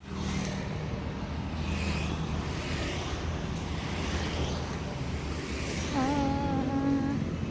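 Street traffic noise with a steady low engine hum, as of motor vehicles idling and passing. A person's voice calls out briefly about six seconds in.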